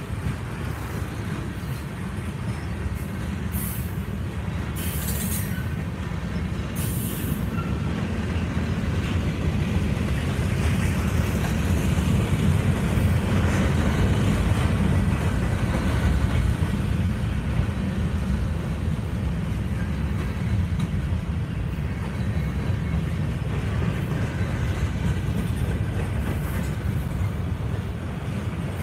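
Freight train of autorack, tank and covered hopper cars rolling past: a steady low rumble of steel wheels on rail that grows louder midway and then eases. A few brief high hisses come a few seconds in.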